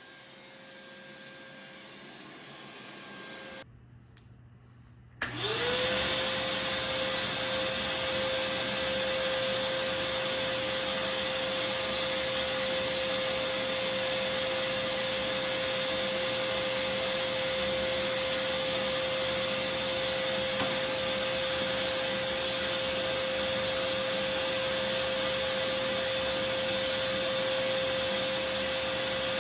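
An electric motor starts about five seconds in, spins up within a fraction of a second, and runs at a steady whir with a high steady hum and no change in load.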